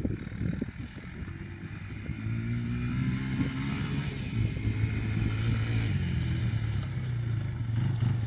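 2002 Yamaha Bear Tracker 250's single-cylinder four-stroke engine running, with a few knocks and rattles in the first second or so. The steady engine drone grows louder about two seconds in.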